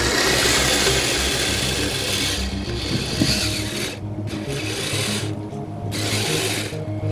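Kyosho Blizzard RC snow cat's electric motor and tracks running, a whirring, rasping drive sound that cuts back briefly three times in the second half as the throttle is let off.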